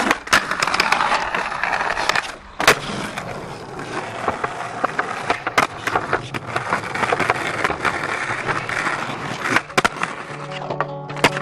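Skateboard wheels rolling on a hard floor, broken by sharp clacks and knocks from the board, a few of them loud. Music comes in near the end.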